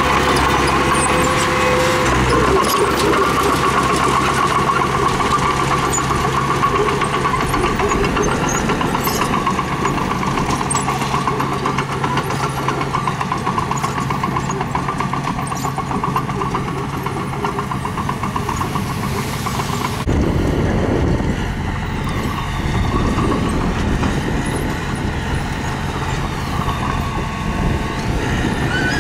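Diesel engine of earthmoving machinery running continuously under work, with a sharp change in the sound about two-thirds of the way through.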